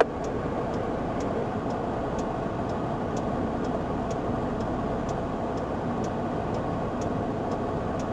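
Steady low noise of a vehicle at rest, with a light, regular tick about twice a second, typical of a police car's flasher.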